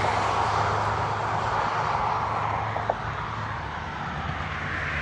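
Car driving along a road: a steady rush of road and engine noise over a low hum, with one small click about three seconds in.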